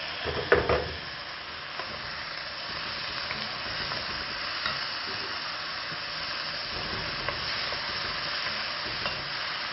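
Chopped tomatoes dropping into hot oil and frying onions in a steel kadai, with one thump about half a second in, then a steady sizzle while a wooden spatula stirs and scrapes the pan.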